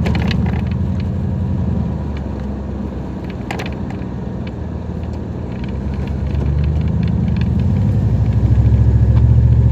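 Dodge Ram 1500 pickup's engine and road noise while driving: a low steady drone that eases off for a few seconds, then grows louder in the second half. There is a short click about three and a half seconds in.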